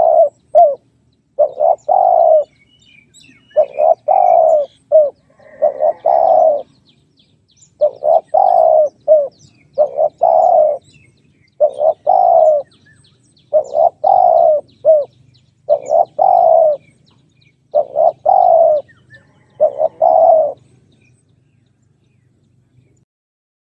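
Spotted dove cooing its repeated territorial call: a phrase about every two seconds, each a couple of short coos followed by a longer one, about ten phrases in a row before it stops.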